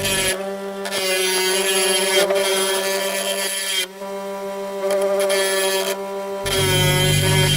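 Wood lathe running with a steady motor whine while a turning chisel cuts into the spinning wooden blank, roughing it round. The cutting hiss comes in passes, breaking off briefly about four seconds in and again near the end.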